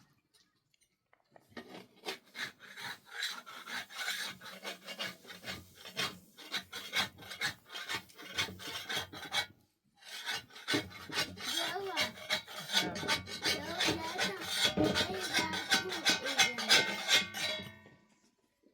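Rapid, repeated rasping or scraping strokes in two runs, with a short break about halfway through.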